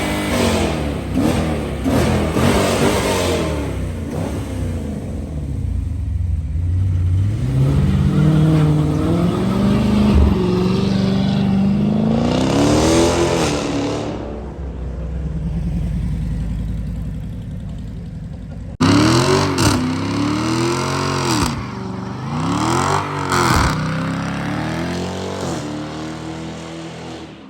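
Dodge Challenger's 5.7 Hemi V8 through an aftermarket exhaust, revved hard over and over, its note climbing and falling again and again. About nineteen seconds in the sound cuts abruptly, then more quick rev blips follow before it dies away near the end.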